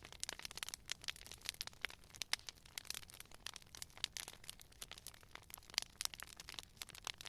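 Wood fire crackling and popping: many irregular sharp snaps over a faint low rumble of flame.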